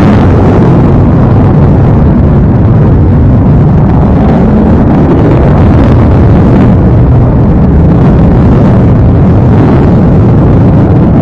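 F-22 Raptor fighter jet's engines roaring, a loud steady rumble that stays near the top of the recording's level.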